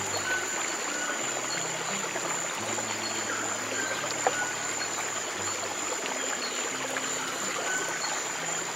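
Water running steadily in a stream, with soft, slow low music notes held underneath. A single sharp click about four seconds in.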